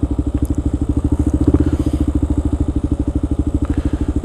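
Kawasaki KLR650's single-cylinder four-stroke engine running at low revs, with an even pulsing beat of about a dozen firings a second.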